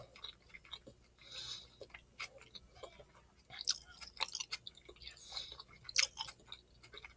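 A person chewing a mouthful of Philly cheesesteak sub, with irregular wet mouth clicks and smacks; a sharper click stands out about six seconds in.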